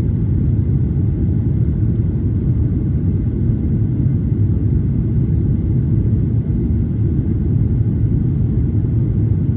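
Steady low rumble of a Boeing 737-800's CFM56-7B jet engines and airflow, heard from inside the passenger cabin.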